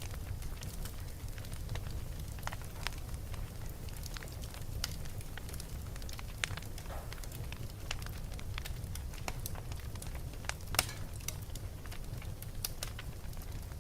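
Wood fire burning in a fireplace: a steady low rumble with irregular crackles and pops, the loudest pop about eleven seconds in.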